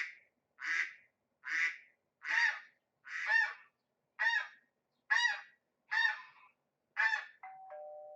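Waterfowl honking in a steady series of about nine calls, roughly one a second, from a recorded animal-sounds track. Near the end a two-note doorbell chime, ding-dong, sounds with the second note lower.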